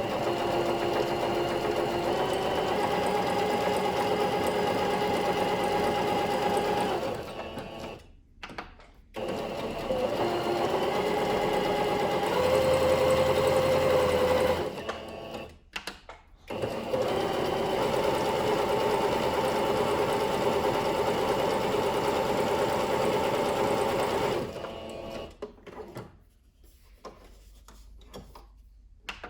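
Singer Curvy sewing machine running in three bursts of several seconds each, with brief stops between them and a change of speed within the runs.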